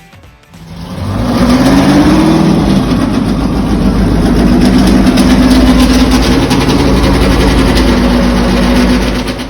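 Tractor engine running loud, coming up about a second in, its pitch rising slightly and then holding steady, and cutting off abruptly at the end.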